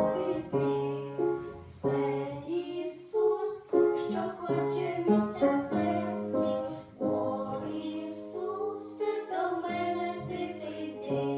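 A children's Christian song sung with piano accompaniment, a melody of held notes that change every half second or so.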